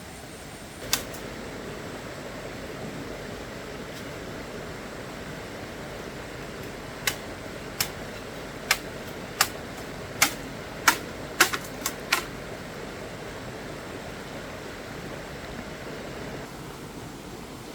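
A steady hiss with sharp clicks or knocks over it: one about a second in, then about nine in quick succession a little past the middle.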